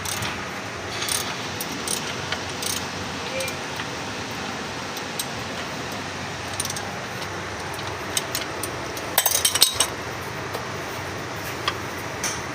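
Metal tools and parts clinking now and then during engine reassembly, with a quick run of clinks about nine seconds in, over a steady background hiss.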